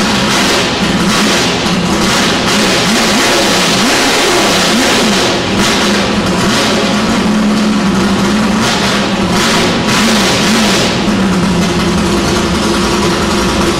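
1966 Ford Falcon XR ute's 370-cubic-inch Windsor V8 with twin carburettors running loud on its first start-up, its revs rising and falling again and again as the throttle is blipped.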